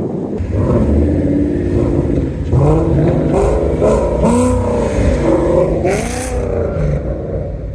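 Car engine revving up and down several times, its pitch rising and falling over a steady low rumble, with two short hissing bursts in the middle.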